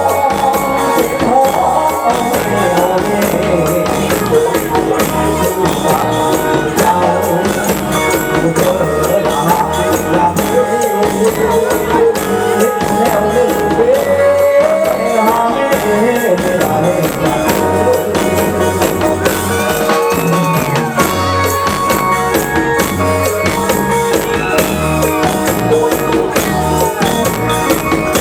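Thai ramwong circle-dance music played by a live band: a steady drum beat with tambourine under a melody that slides and bends in pitch.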